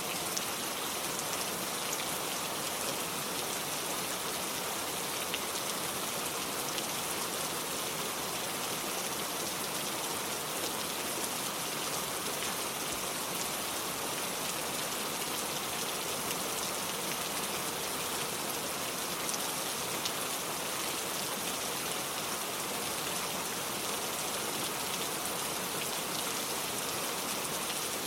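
Steady rain falling, a dense, even patter of drops that stays constant throughout.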